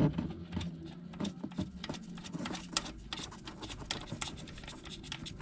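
Sump plug being unscrewed by hand from a Kawasaki ZZR 1400 motorcycle engine as warm engine oil begins to drain out, with a quick irregular pattering of small clicks and splashes.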